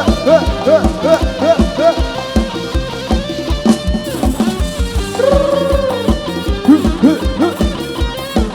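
Isan dance music from a rot hae band's sound system with no singing: a fast, steady kick drum at about four beats a second under a lead melody with bending notes, and one long wavering note about five seconds in.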